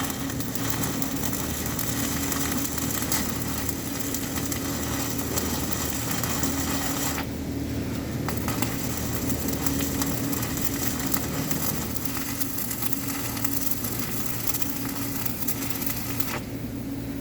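Electric arc welding: a steady crackling hiss over a constant machine hum. The crackle breaks off briefly about seven seconds in and again near the end, while the hum carries on.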